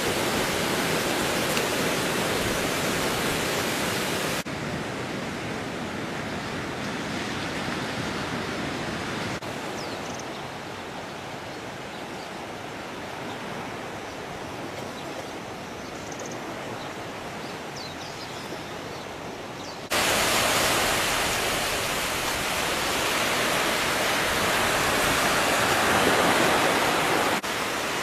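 Steady rushing noise of fast-flowing river water. It changes abruptly in loudness and tone several times: quieter and duller from about 4 s to 20 s, louder and brighter after that.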